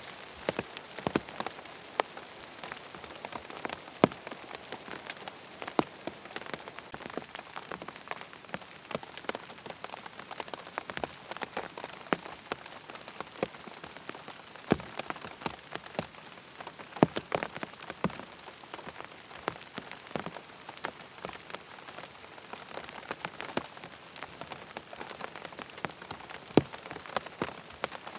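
Steady rain falling on a surface, an even patter with frequent sharp, irregular drip ticks and pops scattered through it.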